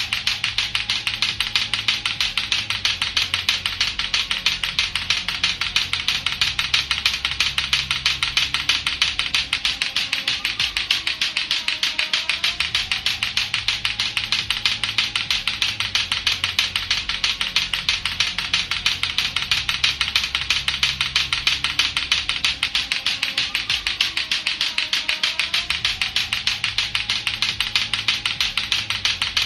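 Lato-lato clacker balls, two hard plastic balls on a string, clacking together in a fast, unbroken stream of sharp clicks. A quiet looping backing track with a bass line runs beneath.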